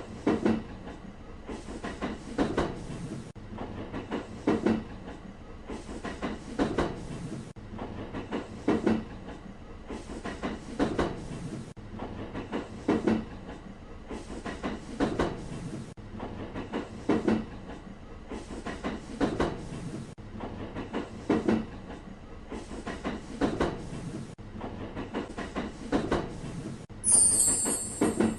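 Train wheels running over rail joints: a double clickety-clack about every two seconds over a low rolling rumble. A brief high-pitched hiss near the end.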